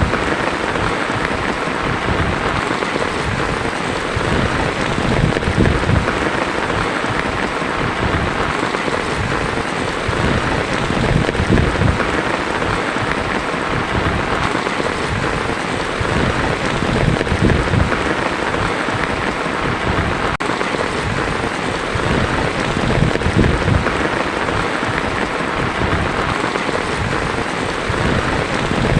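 Heavy rain drumming steadily on a tin roof, with a low rumble that swells and fades every few seconds.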